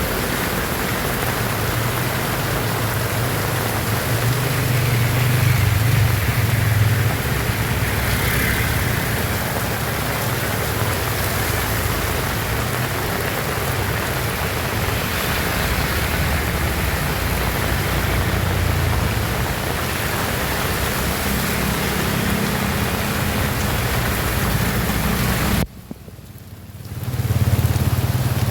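Heavy rain falling in a steady, dense hiss, with a low rumble underneath that swells and fades. Near the end the sound drops away sharply for about a second before it returns.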